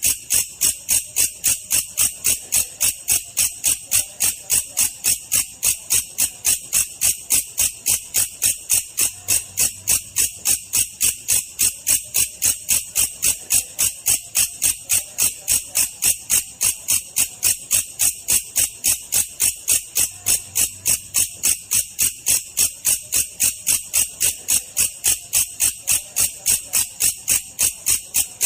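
Belalang kecek katydid call in a slowed version used as a masteran for lovebirds and songbirds: an even, unbroken run of sharp, high-pitched chirps, about three a second.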